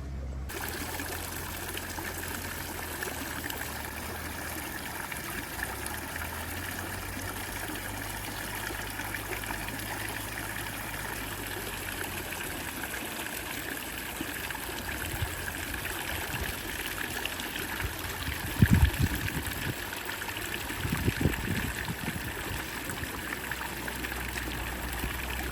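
Steady trickling of running water, with a couple of short low thumps about two-thirds of the way through.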